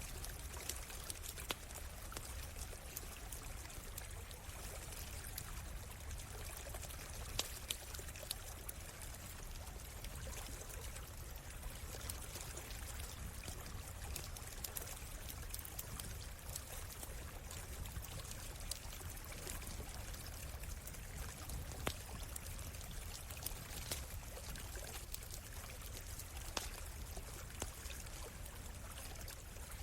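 A forest stream running steadily, with a campfire crackling: scattered sharp pops over the rush of the water.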